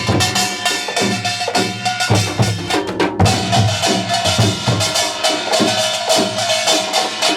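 A Korean pungmul percussion group playing together: janggu hourglass drums and other folk percussion struck in a fast, dense rhythm, with a held ringing tone through the second half.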